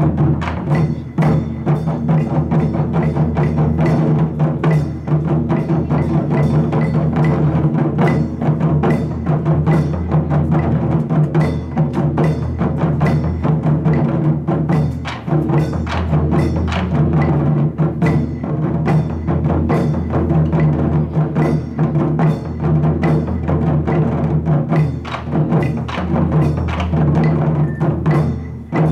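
Japanese taiko drum ensemble playing a steady, driving rhythm of dense, continuous drum strikes.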